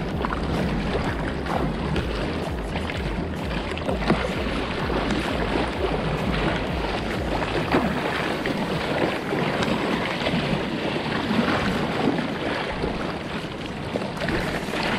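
Seawater splashing and rushing around a moving kayak, with wind buffeting the microphone; the low wind rumble eases about halfway through.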